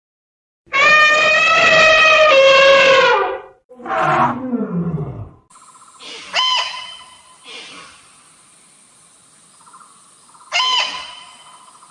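Animal calls: a long, loud pitched call, then a shorter call falling in pitch. After that, a different animal gives short sharp calls every second or few seconds over a steady hiss.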